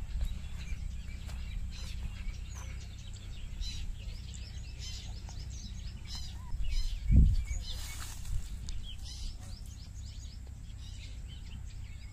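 Small birds chirping again and again over a steady low rumble, with one loud dull thump about seven seconds in.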